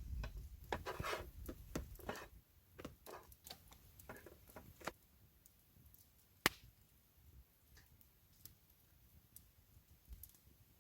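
Knife cutting food on a cutting board: irregular taps and short scraping strokes, busier in the first few seconds, with one sharp knock about six and a half seconds in.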